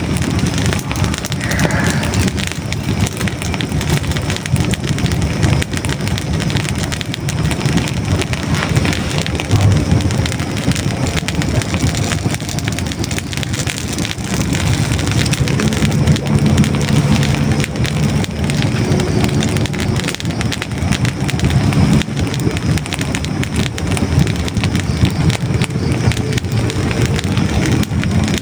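Hardwood logs burning in a fireplace: dense, continuous crackling with many small pops over a low rumble of the flames.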